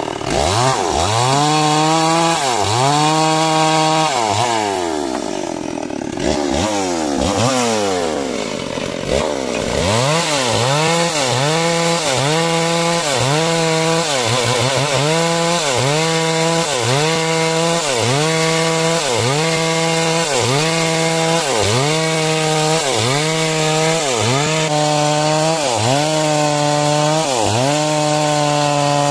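Two-stroke chainsaw cutting timber. The engine's pitch dips and recovers about once a second as the chain loads up in the wood and frees again, with slower, longer swings in the first ten seconds.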